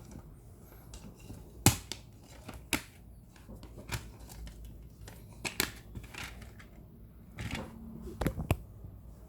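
Handling noise from unboxing a VCD: irregular sharp clicks and taps of a plastic case with light rustling, the loudest click about two seconds in and a quick pair near the end.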